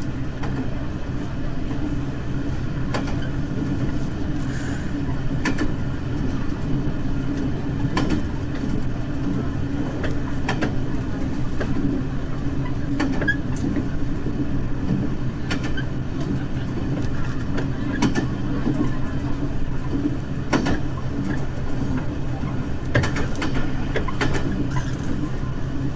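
Diesel railcar running along the track, heard from inside the train: a steady engine and running drone, with sharp clicks every two to three seconds from the wheels passing over rail joints.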